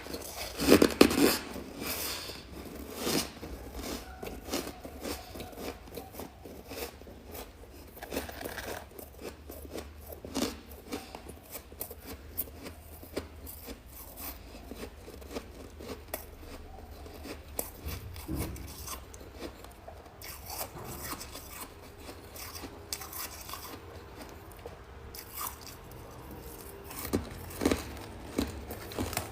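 Freezer frost being scraped and crunched: a long run of short, sharp scrapes and crisp crunches, loudest about a second in and again near the end.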